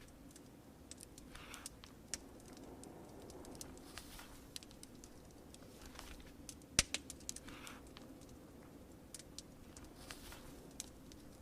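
Fireplace crackling: irregular sharp pops and snaps, the loudest a little before the seventh second, over a steady soft hiss, with a few brief soft rustles in between.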